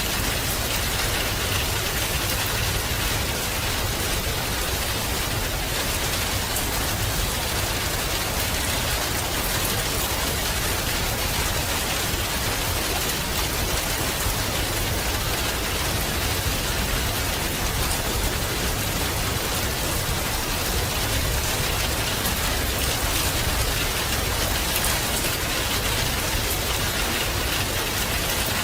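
Steady rain falling on a surface, an even hiss with fine pattering drops, constant throughout.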